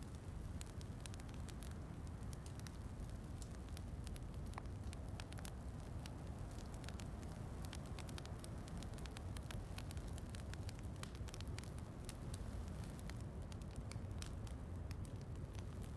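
Wood fire crackling in a fireplace, with frequent small sharp pops, over a steady low rushing of rain.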